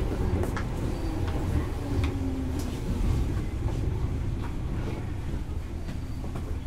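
JR East 205 series 0 commuter train heard from inside the car while running: a steady low rumble of wheels on rail with scattered clicks and knocks, easing slightly in loudness toward the end.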